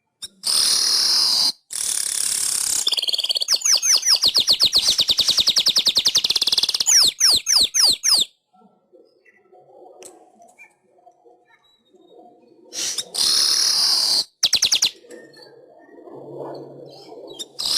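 Manyar (weaver bird) song: two high, hissing buzzes, then a fast run of sweeping notes at about ten a second lasting some five seconds and ending in a few separate sweeps. After a pause, another buzzy phrase comes about thirteen seconds in.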